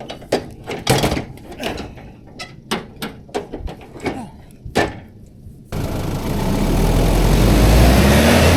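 A string of sharp knocks and clanks. About six seconds in it gives way abruptly to the SsangYong Kyron's 2.0 turbodiesel running under a steady rushing noise, its low engine note growing stronger.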